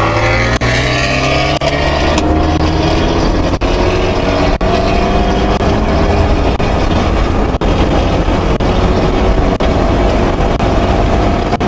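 Abarth 124 Spider's tuned 1.4 MultiAir turbo four-cylinder pulling hard in third gear, heard from inside the cabin, its revs rising slowly and steadily throughout.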